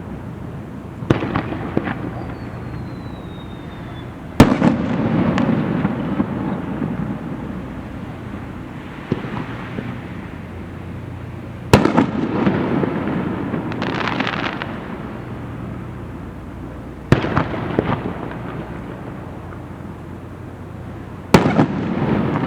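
Fireworks display: aerial shells bursting with five sharp bangs a few seconds apart, each followed by a long rumbling echo, with crackling after some bursts.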